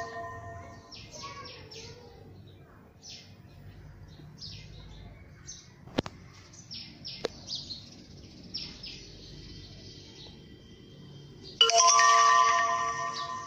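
Birds chirping in short repeated calls, with a ringing chime of several steady tones at the start and again, louder, near the end. Two sharp clicks fall in the middle.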